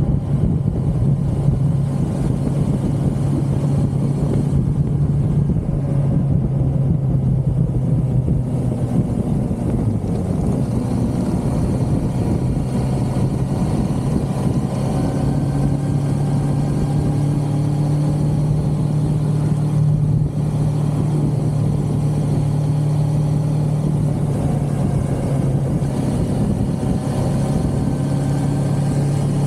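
1982 Suzuki GS550L's air-cooled inline-four engine running at a steady cruising pace, its pitch barely changing apart from a brief dip about ten seconds in.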